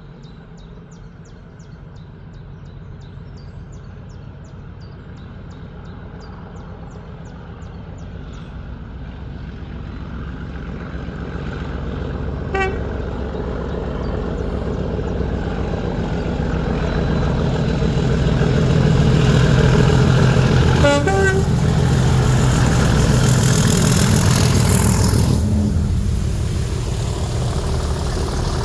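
Class 37 diesel locomotive 37608, with its English Electric 12CSVT engine, running under power as it hauls a train past. It grows steadily louder as it approaches and is loudest in the second half as it passes. Two short horn toots sound, one about halfway through and another about eight seconds later.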